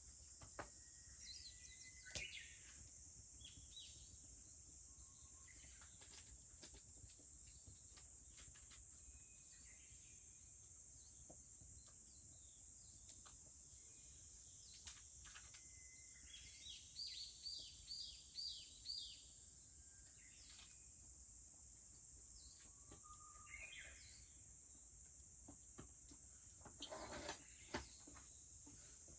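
Faint outdoor summer morning: a steady high cicada drone runs throughout, and birds call now and then, most clearly in a quick run of five or six short notes about two-thirds of the way through. Small scattered crackles come from a wood fire.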